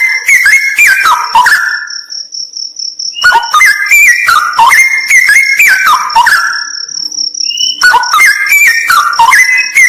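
Straw-headed bulbul (cucak rawa) singing loud, bubbling phrases of quick stepped whistles, each lasting about three seconds with short pauses between. A steady, high pulsing trill runs underneath.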